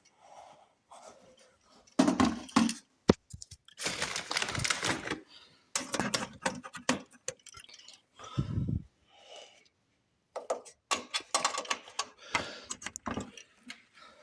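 Handling noise of small hard objects: a run of irregular clicks, knocks and clinks, with a noisier stretch lasting about a second around four seconds in.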